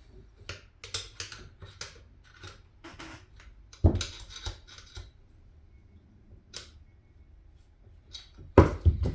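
Metal outboard lower-unit parts and gears being handled and set together: a run of small sharp clicks and clinks, with heavier knocks about four seconds in and again near the end.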